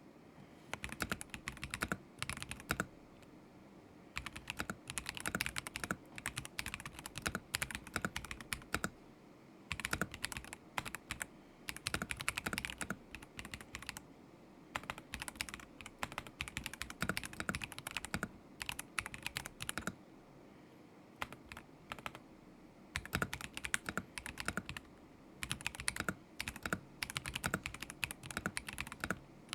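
Typing on a KZZI K75 Pro mechanical keyboard with Moment linear switches: runs of rapid key clicks in bursts, with brief pauses between them.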